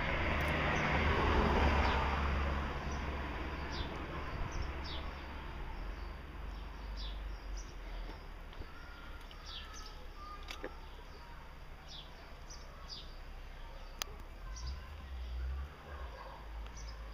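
Small birds chirping, short high chirps repeating roughly once a second, over a steady low outdoor rumble. There is a louder rush of noise in the first couple of seconds.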